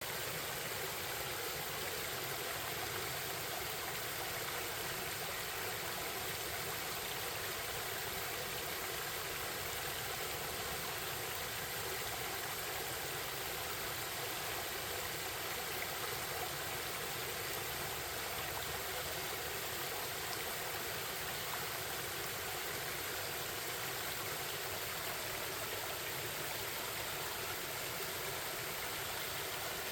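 Forest stream babbling with a steady flow of water.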